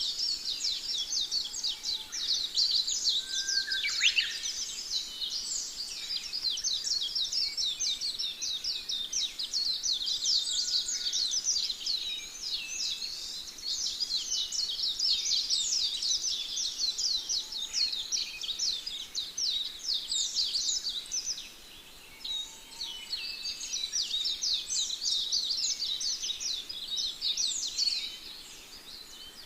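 Budgerigar chattering and warbling: a dense run of rapid high chirps that thins briefly about two-thirds of the way through and again near the end.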